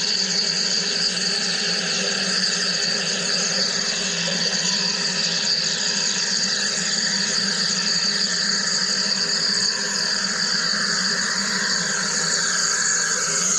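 Wire EDM machine running: a steady, even hiss with a low hum under it.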